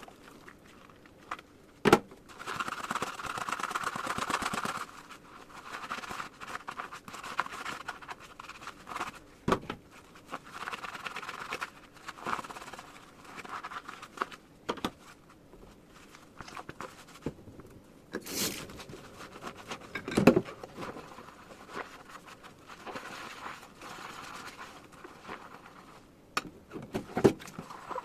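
Dishes being washed by hand in a kitchen sink: stretches of scrubbing and rubbing with a sponge and rubber gloves, broken by occasional knocks and clinks of dishware, the loudest knock about twenty seconds in.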